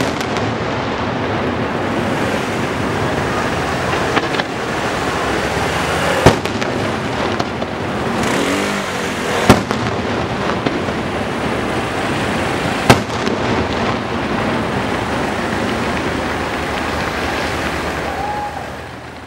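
Fireworks barrage: a dense, continuous crackle of rapid reports, with single louder bangs standing out three times, at about 6, 9½ and 13 seconds in. It starts fading away at the very end.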